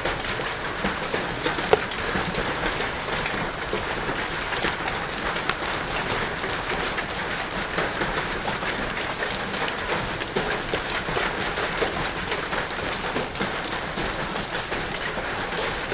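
Steady rain in a thunderstorm with some small hail, a dense patter of drops and hailstones striking. A couple of sharper hits stand out, near two and five and a half seconds in.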